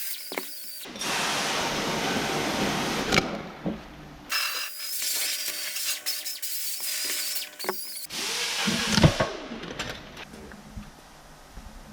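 Handheld electric drill-type power tool running in two long bursts of a few seconds each, followed by a few knocks as tools or parts are handled near the end.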